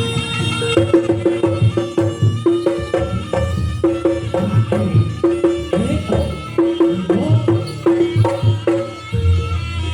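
Javanese jaranan accompaniment played live: a traditional percussion ensemble of drums and tuned struck instruments in a quick, repeating pattern of pitched strikes over steady drumming.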